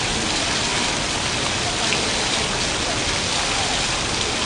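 Steady rain-like hiss and patter of water falling in curtains of drops from an electronically valved water display and splashing into its basin below.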